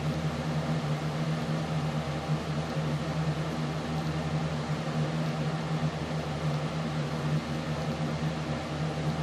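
Steady mechanical hum over an even hiss, unchanging throughout, like a fan or appliance motor running.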